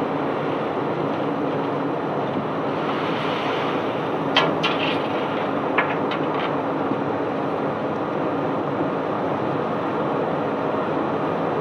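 Barge-unloading machinery running with a steady drone and a rushing noise as white limestone is discharged. A few short, sharp clinks come about four and a half and six seconds in.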